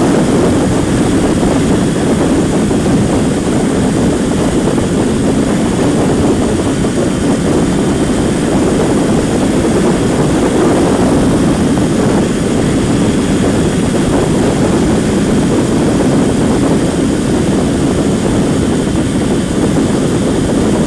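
Loud, steady wind noise buffeting the rider's helmet microphone on a Kawasaki Ninja 250 motorcycle at highway speed, with no distinct engine note standing out from it.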